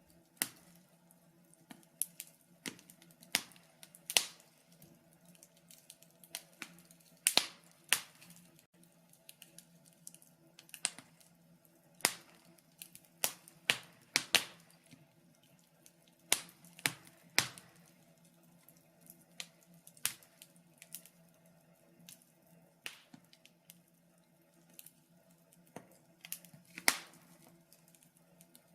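Wood fire in a fireplace crackling, with irregular sharp pops and snaps one to three times a second, some louder than others, over a faint steady hum.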